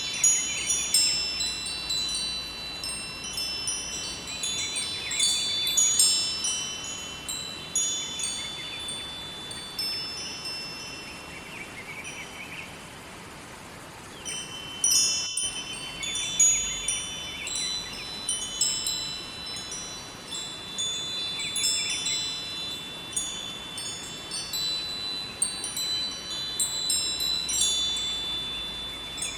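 Wind chimes ringing in irregular clusters of high, bell-like tones that thin out to a lull about twelve seconds in and pick up again a few seconds later, over a steady rush of river water.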